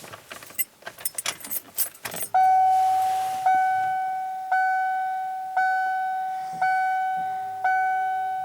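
Keys jangling as the ignition key is worked, then a 1995 Ford's dashboard warning chime dinging about once a second, six times, each ding fading before the next.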